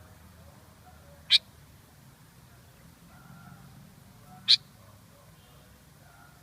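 Sooty-headed bulbul giving two short, sharp, high calls about three seconds apart, over a faint background.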